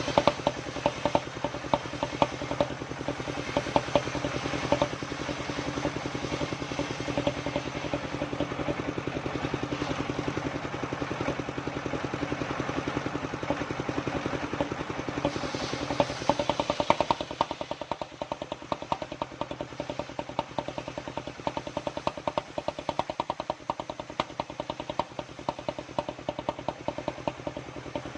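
Engine of a homemade circular-saw sawmill running steadily with a fast rhythmic clatter. About two-thirds of the way through, the deep low part of the sound drops away while the clatter carries on.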